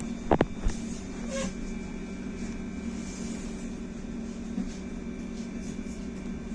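Cabin of a BKM-43300D trolleybus: the steady electric hum of its drive and onboard equipment, with two or three sharp knocks or rattles near the start.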